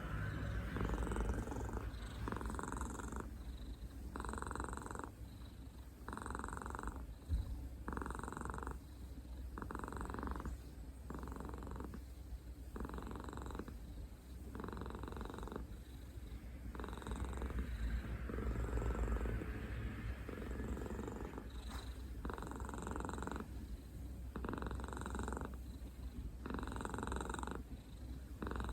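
A cat purring close up, the purr pulsing in a steady rhythm about every second and a half, with a single brief click about seven seconds in.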